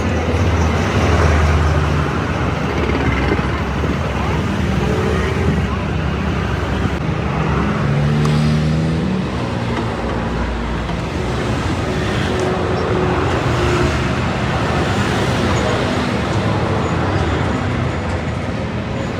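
Busy road traffic: vehicle engines running and passing steadily, with no break.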